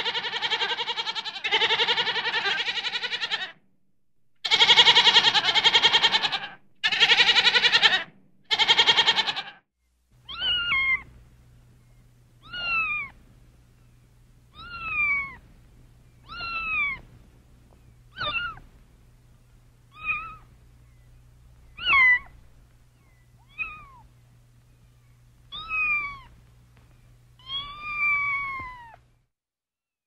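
Goats bleating in five long, wavering calls, then from about ten seconds in a cat meowing, about eleven short meows that rise and fall in pitch, roughly one every two seconds, over a low steady hum.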